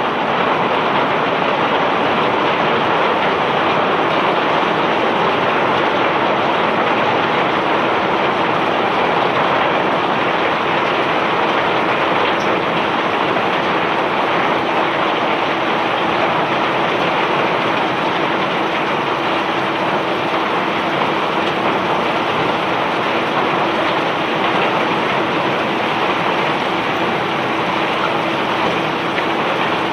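Bulk cargo pouring steadily off a self-unloading barge's discharge conveyor: an even, continuous rushing, with a faint steady machinery hum underneath.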